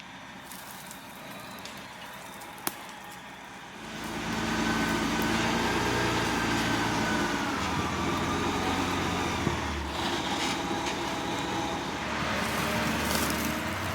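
A truck engine running and drawing near, growing louder about four seconds in, with a faint whine that drops in pitch partway through.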